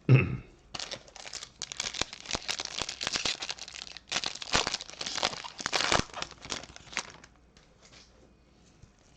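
Trading-card pack wrapper being torn open and crinkled in the hands: a run of dense crackling and tearing for about six seconds, then it stops.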